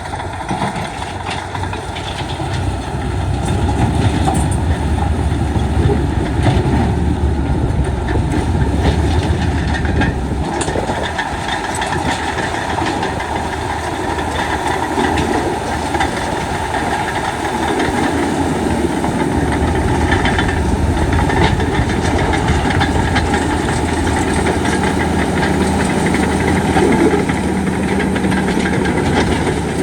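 Heavy diesel earthmoving machinery working: a deep engine running steadily under load, with clanking and track clatter mixed in. The engine note shifts in the second half, where a steady higher hum comes in.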